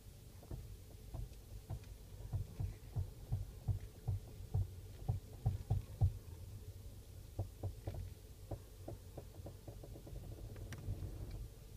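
VW Golf 6 front suspension on Bilstein B14 coilovers knocking as the steering is turned: irregular low knocks and clicks, several a second, densest in the first half and thinning out, giving way to a low even hum near the end.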